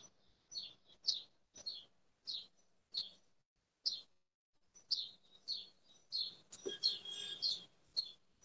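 A small bird chirping again and again in short high calls, roughly one or two a second, with a busier flurry of calls about two-thirds of the way through.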